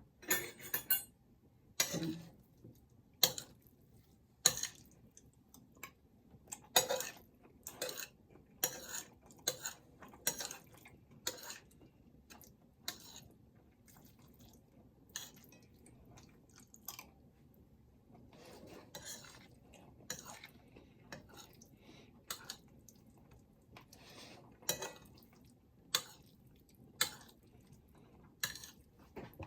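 Utensils clinking and tapping against a dish or food container, in irregular single knocks about once a second.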